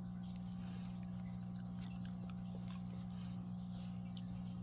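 Low steady electrical hum, with faint scattered ticks and rustles from yarn and a crochet hook being handled.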